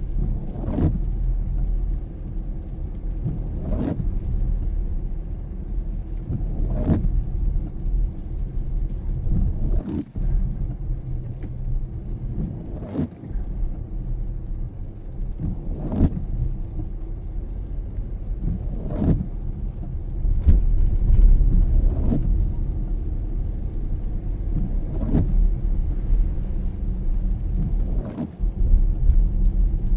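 Car driving in the rain, heard from inside: steady low road and engine rumble, with the windshield wipers sweeping about once every three seconds.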